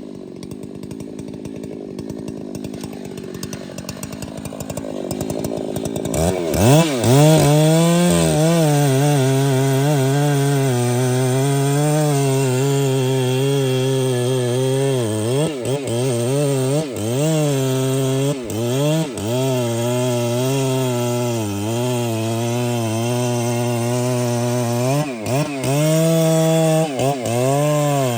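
Large two-stroke chainsaw running at low speed with rapid even firing, then revved up about six seconds in and run hard, as in cutting timber, its engine pitch wavering and dipping briefly several times under load.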